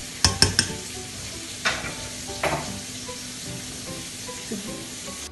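Metal clinks and knocks from a stainless-steel pot of potatoes in water and a spoon as the pot is stirred and handled: a quick cluster of sharp clinks near the start and two more about two and two and a half seconds in, over a steady hiss.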